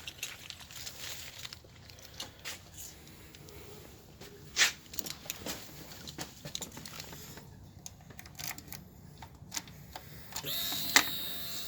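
Scattered small clicks and knocks as a motorcycle key is fetched and handled, the sharpest about halfway through. Near the end a steady electric hum starts, with one sharp click.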